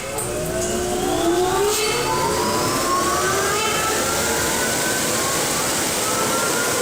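Belanger FreeStyler car wash dryer blowers spinning up one after another: several whines slowly rising in pitch and overlapping over a steady rush of air.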